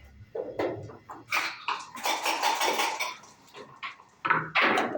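Backgammon play: dice rattling and tumbling onto the board, with sharp clicks of checkers being set down. The densest rattle comes in the middle, with more separate clacks near the end.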